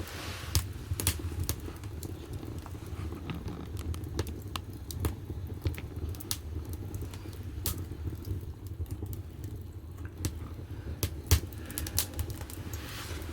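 Firewood burning in the firebox of a wood-fired bath heater: irregular sharp crackles and pops over a steady low rumble of the fire, with a brief hiss at the start and another near the end.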